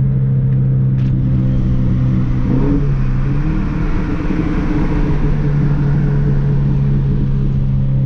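Scion FR-S flat-four engine running through an exhaust with the muffler and resonator removed, holding steady revs with a loud, even exhaust note. The pitch dips briefly and climbs back about three seconds in, and there is a single click about a second in.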